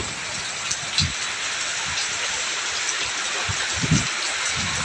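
Heavy rain pouring down in a dense, steady hiss, with a few brief low thumps about one and four seconds in.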